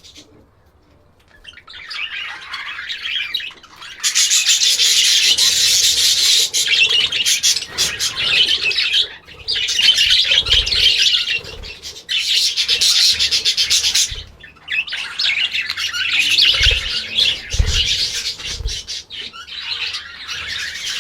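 Many birds chattering and calling together in a dense, continuous high-pitched chorus. It starts after a quiet first second or two and runs on with only brief dips.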